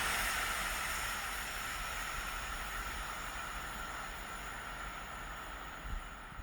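Train moving away along the line, its rumble and hiss fading steadily.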